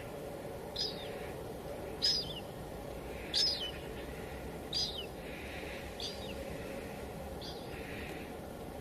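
Steady patter of light drizzle on a window, with a bird calling over it: six short, falling chirps about every second and a half.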